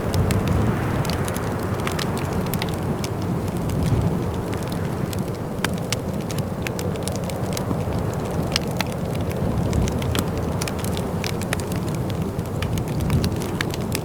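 Wood fire crackling in a fireplace: many small sharp snaps at irregular intervals over a steady low rumble.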